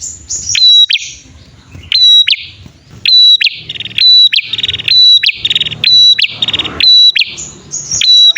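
Male and female prenjak (prinia) calling together: sharp, loud chirps about once a second, alternating with rapid buzzy trills, a calling pattern used as a lure to draw wild birds.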